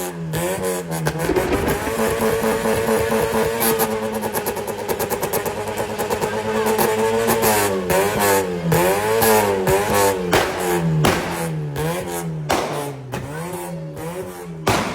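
Car engine revved up and down over and over, held at a steadier pitch for a few seconds near the start.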